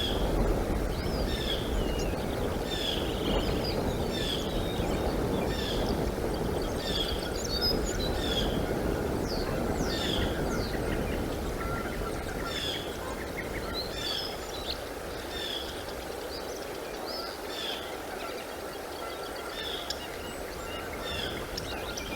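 A bird repeating a short high chirp, roughly one or two a second, over a steady rushing noise that eases off about halfway through.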